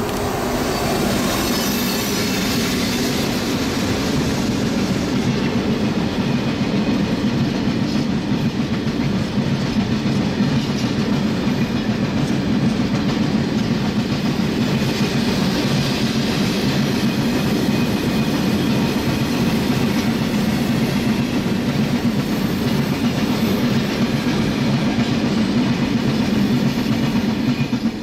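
Train passing close by: a loud, steady run of wheels on rail that fades quickly at the very end.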